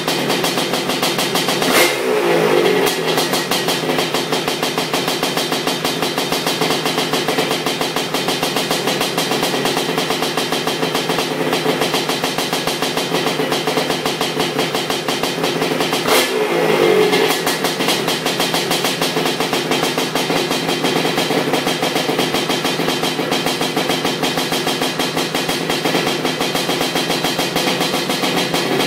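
Honda 250R trike's 310 ESR two-stroke engine running on its first heat cycle, mostly at a steady idle. It is revved briefly twice, about two seconds in and again a little past halfway.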